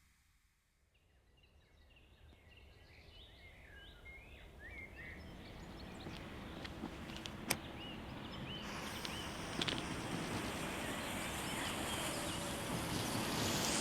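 Outdoor ambience fading in from silence: birds chirping for a few seconds, then a steady hiss of background noise that grows louder, with a couple of sharp clicks.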